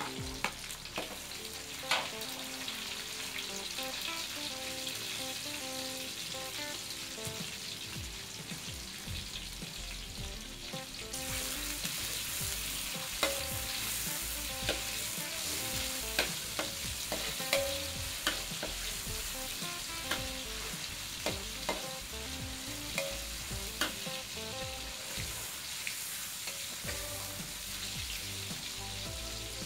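Chopped ingredients sizzling as they fry in a wok, the frying getting louder about eleven seconds in, with a metal spatula clicking and scraping against the wok as they are stirred.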